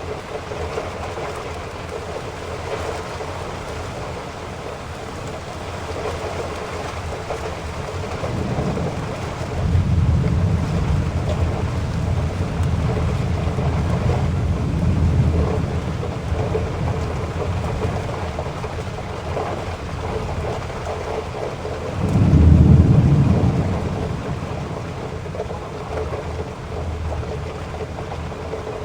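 Heavy rain falling steadily, with low thunder rumbling for several seconds about a third of the way in and a louder, shorter roll of thunder about three-quarters of the way through.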